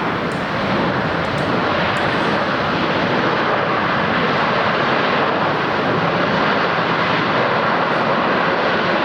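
Jet airliner's engines, a loud steady rushing noise that swells just at the start and then holds.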